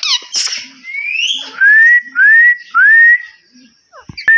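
Indian ringneck parrot whistling: three loud rising whistles in a row, each about half a second long, after a few shorter chirps.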